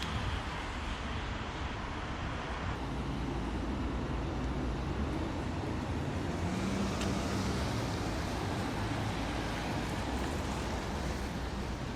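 Steady road noise from a car on the move: a low rumble of tyres and engine.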